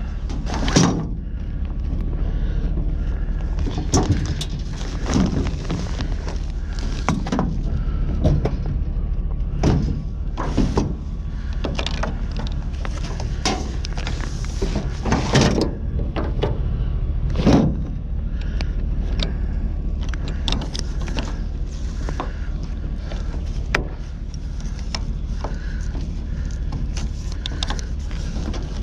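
Irregular knocks, clanks and scrapes of scrap items being handled and moved, with louder bangs about a second in and near 4, 10, 15 and 17 seconds, over a steady low rumble.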